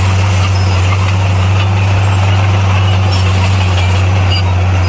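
Bulldozer's diesel engine running steadily, a loud constant low drone with no change in pitch.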